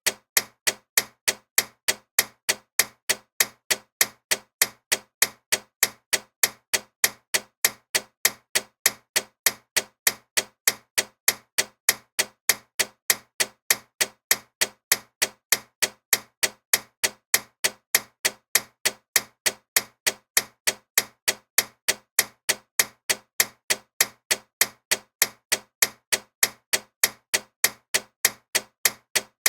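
Loud ticking clock: sharp, even ticks at about three a second, with no pause.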